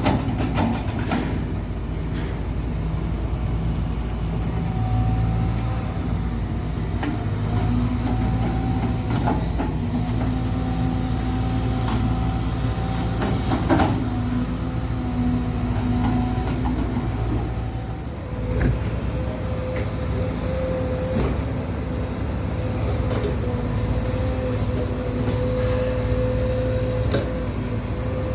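A heavy machine running steadily with a low hum and a few steady tones that shift slightly in pitch, and several sharp clicks and knocks, the loudest about 14 seconds in.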